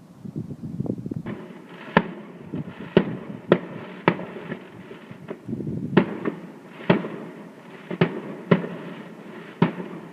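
Fireworks going off: a run of sharp bangs, about one every half-second to second, over a continuous crackle.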